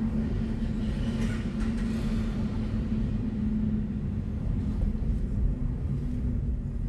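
Steady road and tyre rumble of a BMW i4 M50 electric car being driven, with a constant low hum under it.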